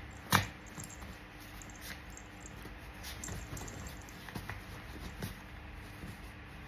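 Scattered light taps and clicks from a poodle puppy moving about, with one sharper click about a third of a second in, over a faint steady hum.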